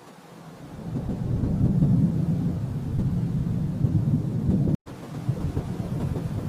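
Rolling thunder: a low rumble that swells over the first second or two, then carries on, cutting out for a split second a little under five seconds in.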